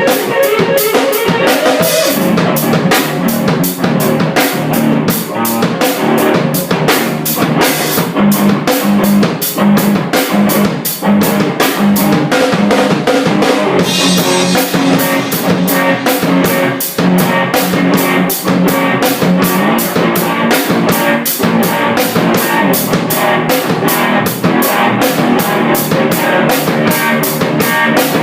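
Live drum kit and electric guitar jamming together, with a fast, steady beat of drum and cymbal hits under sustained guitar notes.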